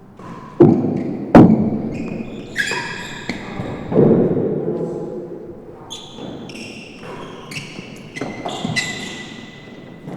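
Real tennis rally: sharp knocks of racquet on the hard ball and the ball off the court's walls and floor, echoing in the enclosed court, the loudest about a second in. Brief high shoe squeaks on the court floor come between the shots.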